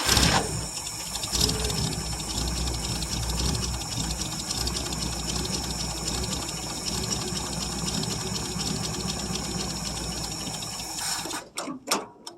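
A 1959 International B120 pickup's engine being turned over by its starter for about eleven seconds with an even cranking rhythm, without catching, then cutting off with a couple of short bursts. The owner suspects fuel starvation, a stuck carburetor needle, a fuel pump not pulling, or a plugged tank.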